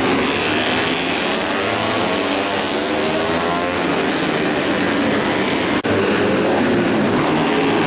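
Racing motorcycle engines running hard and steady at high revs, with a momentary dropout about three-quarters of the way through.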